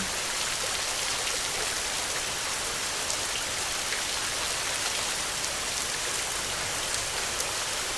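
Steady rain falling on a surface: an even hiss with many scattered drop ticks.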